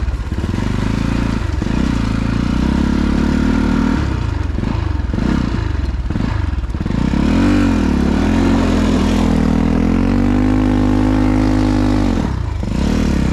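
Dirt bike engine running while riding, its revs rising and falling, held higher for a few seconds, then dropping away near the end as the bike comes to a stop.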